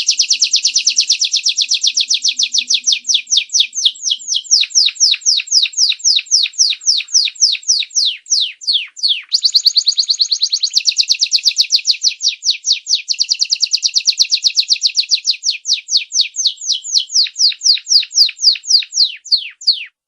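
Domestic canary singing a long unbroken song of fast, repeated downward-sweeping notes. The phrase changes about nine seconds in, and the song cuts off suddenly at the end.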